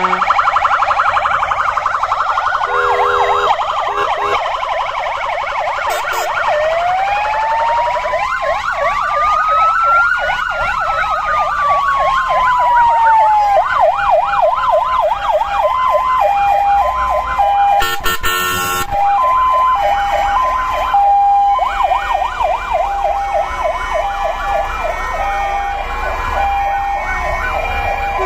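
Several fire engine sirens sounding at once: rapid yelping sweeps throughout, one slow wail that rises and then falls over about seven seconds, and from about halfway a two-tone hi-lo siren alternating between two pitches. A short crackle comes about two-thirds of the way in.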